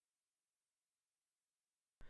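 Near silence: the sound drops out entirely between spoken lines.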